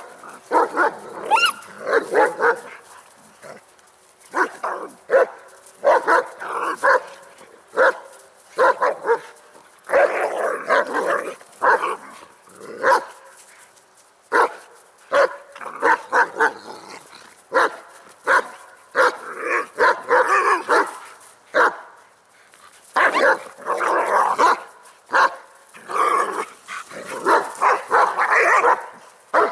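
Several dogs barking and yelping in repeated bursts with short pauses, the sound of a scuffle: two German Shepherds correcting a young beagle, a dominance reprimand rather than a damaging fight.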